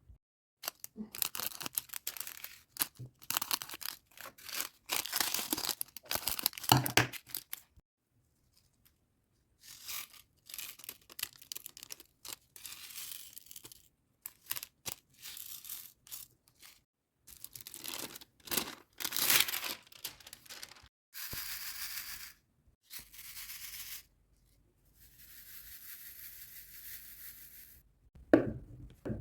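Close-up crackling and tearing of plastic film and packaging from a diamond-painting kit, in quick irregular bursts, then three longer, even hissing strokes near the end.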